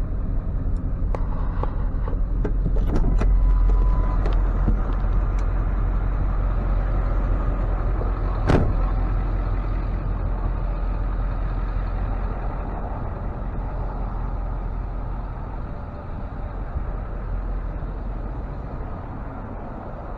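Tow truck's engine idling with a steady low rumble that slowly grows fainter, with a few light clicks early on and one sharp knock about eight and a half seconds in.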